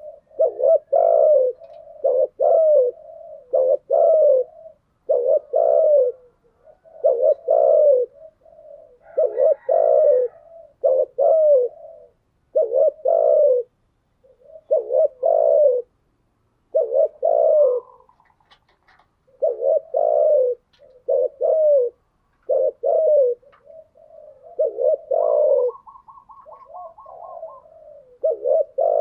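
Spotted doves cooing: short coo phrases repeated over and over, roughly one every one to two seconds, with a brief rapid run of higher notes near the end.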